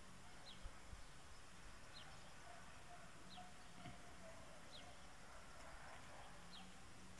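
Near silence with a steady hiss, over which a faint, short, high bird chirp repeats about every second and a half.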